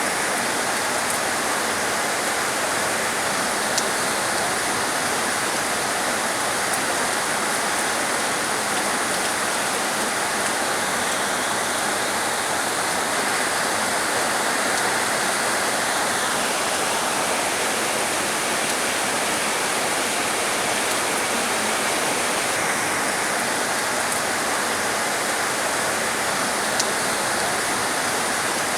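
Heavy rain falling steadily, an even rushing hiss with a few faint drop ticks.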